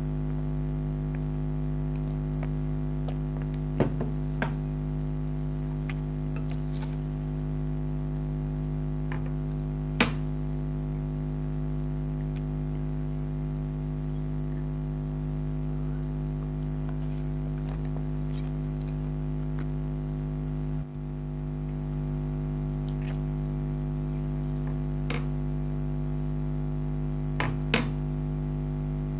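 Steady low hum throughout, with a few short, sharp mouth and eating clicks: a pair about four seconds in, one at about ten seconds, and a cluster near the end.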